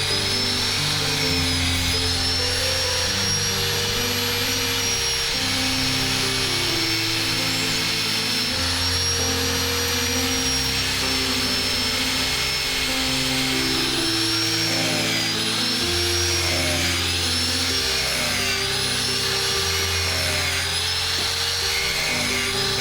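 The high whine of a small power tool's motor runs throughout, its pitch sagging and recovering again and again, more often in the second half. Background music with a stepped bass line plays under it.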